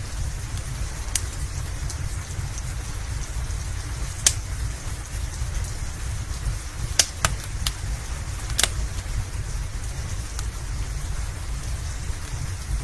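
Steady rain with a low rumble beneath it, and a wood fire crackling with scattered sharp pops, several coming close together a little past the middle.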